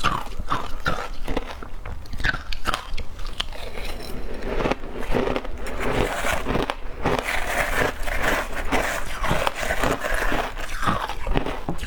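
Shaved ice being bitten and chewed, a rapid run of crisp crunches that grows denser in the middle.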